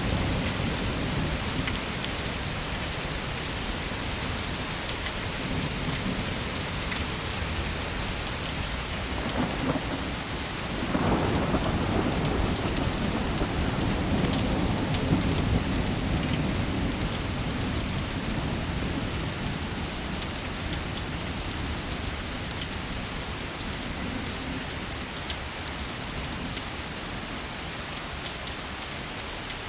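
Steady heavy rain with low rumbling thunder; a louder roll of thunder swells about ten seconds in and fades slowly.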